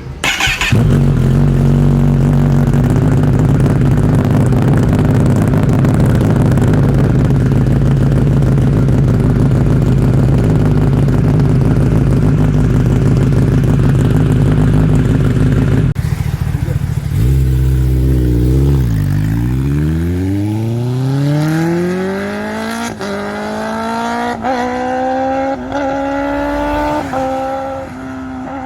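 Kawasaki ZX-10R inline-four through an Arrow exhaust with the dB killer fitted, firing up about half a second in and then running at a steady idle. After about 16 s the engine pitch dips, then climbs steadily for several seconds with short breaks, as the bike pulls away.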